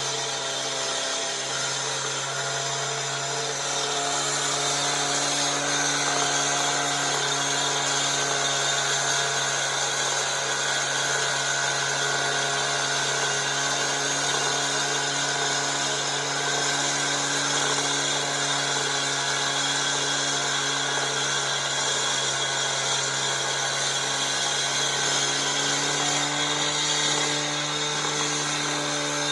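Power saw cutting concrete, a steady running whine over a harsh grinding hiss that grows slightly louder about four seconds in.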